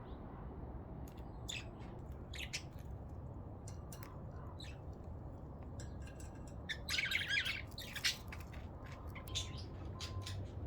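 Pet budgerigars chirping and chattering in short, scattered calls, with a denser burst of chirps about seven seconds in, over a steady low hum.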